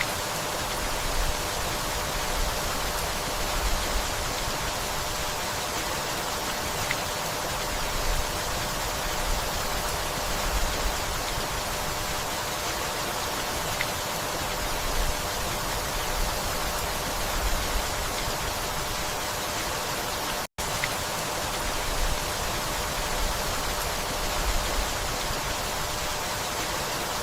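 Steady rainfall, an even hiss of many drops, cutting out for a split second about twenty seconds in.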